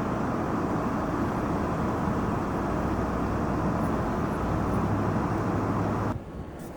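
A steady low rumble like a heavy vehicle engine running under a noisy wash of sound, cutting off abruptly about six seconds in.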